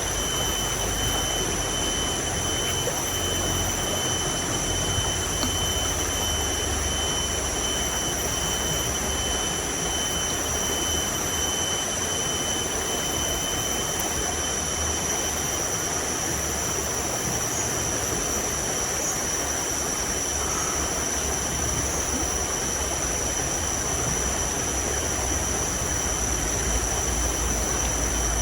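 Heavy rain and a swollen, rushing river: a steady, even wash of noise with a low rumble underneath and two thin, steady high tones above it.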